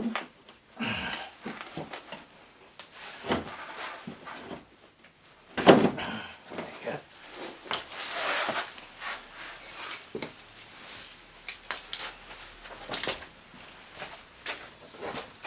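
Hand tools and metal ATV parts being handled during a strip-down: scattered clinks, knocks and short scrapes, with a louder knock about a third of the way in and another near the end.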